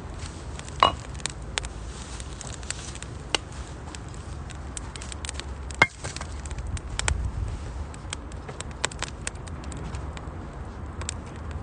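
Firewood crackling and popping as it burns in a Uniflame Nature Stove Large, a compact chimney-draft wood stove: irregular sharp snaps, with the loudest about a second in and near the middle, over a low steady rumble.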